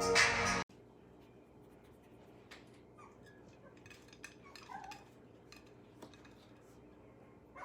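Intro music that cuts off suddenly within the first second, then faint scattered clicks and rustles of takeout food and its containers being handled.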